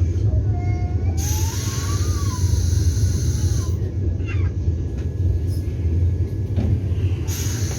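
Steady low rumble inside a Vande Bharat Express carriage, with a hiss of air about a second in lasting some two and a half seconds and a shorter hiss near the end.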